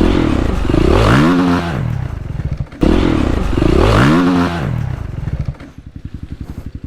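Single-cylinder four-stroke dirt bike engine given two bursts of throttle, the note rising and falling each time, then dropping near the end to a low, slow putter of separate firing pulses.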